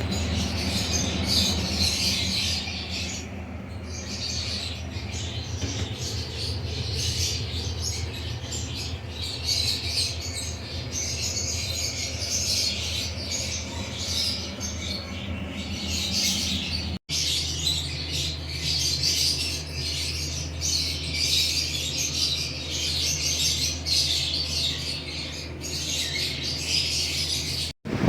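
A flock of lovebirds chattering and squawking continuously, many calls overlapping, over a steady low hum.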